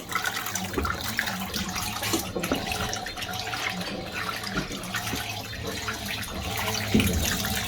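Fisher & Paykel MW511 top-loading washing machine agitating a load: water sloshing and churning as the clothes are turned over, with irregular splashes over a steady low motor hum.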